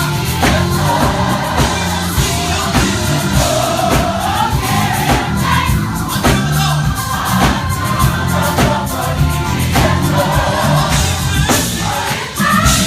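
Gospel choir singing with a live band over a steady beat.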